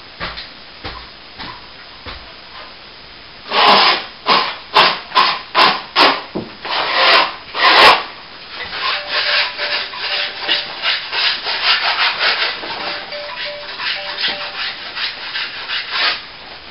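Dried plaster being scraped back by hand. After a few seconds comes a run of loud, separate strokes, then lighter, quicker strokes of about three a second.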